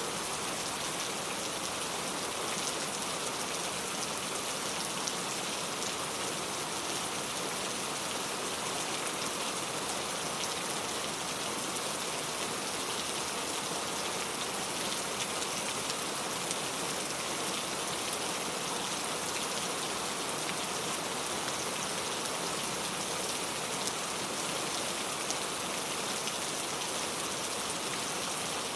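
Steady rain falling, with a dense patter of drops landing on surfaces.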